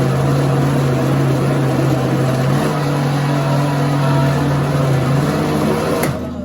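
A household electric appliance's motor running loudly and steadily with a whirring hum, then switching off suddenly about six seconds in.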